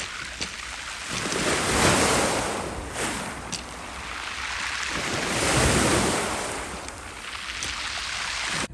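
Sea surf washing onto the shore, with one wave swelling about two seconds in and another around six seconds in.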